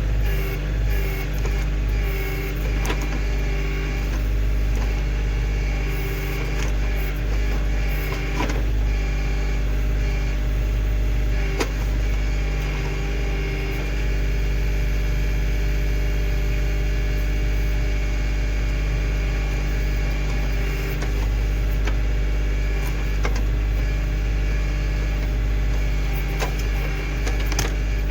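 Kioti CK2610 compact tractor's diesel engine running steadily while the backhoe works, with a few sharp knocks.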